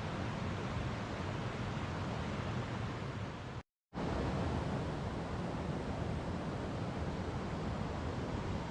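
Steady rushing roar of falling water, broken by a sudden dropout to silence for a moment a little under four seconds in.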